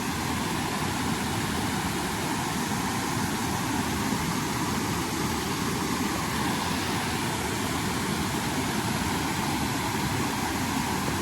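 Steady rushing of a creek's waterfall, an even wash of water noise that does not change.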